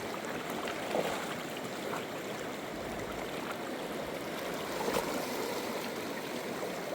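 Steady rush of flowing river water, with a faint knock about a second in and another about five seconds in.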